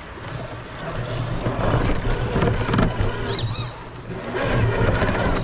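Electric motor and gear drive of a 1/10-scale RC crawler truck whirring under throttle. It swells about a second in, eases off near four seconds and picks up again near the end.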